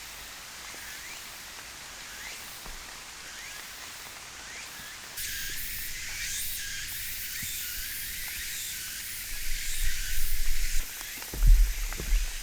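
Outdoor ambience: a steady high hiss with faint short rising chirps, changing abruptly about five seconds in. Loud low rumbling bursts come in the last few seconds.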